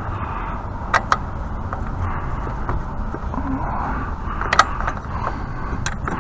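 A few sharp metal clicks of a hand tool on a pressure washer's wheel nut: two about a second in and two more near the end. A steady low rumble runs underneath.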